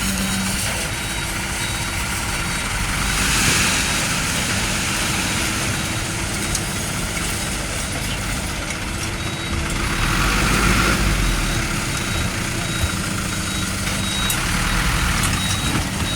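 Heavy diesel trucks running in traffic, a steady engine rumble with road noise, with a short high beep repeating at an even pace like a reversing alarm. The noise swells louder twice, about three and ten seconds in.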